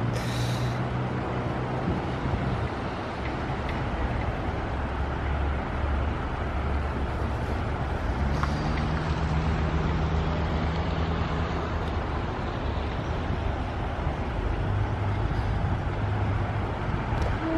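Steady vehicle rumble and running noise, with a low engine hum that shifts in pitch a few times.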